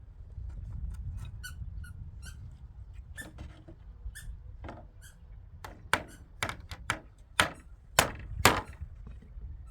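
Hammering: light taps at first, then from about halfway a run of about eight loud sharp blows, roughly two a second.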